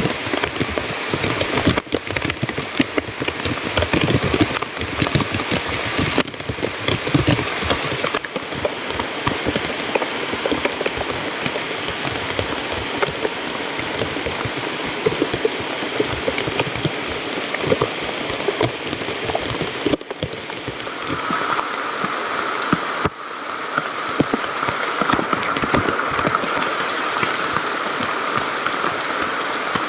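Heavy rain falling, a dense steady patter of drops, changing character at several abrupt cuts.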